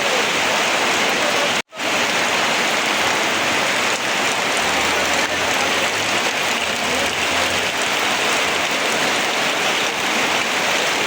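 Heavy rain pouring steadily. The sound cuts out for an instant about two seconds in.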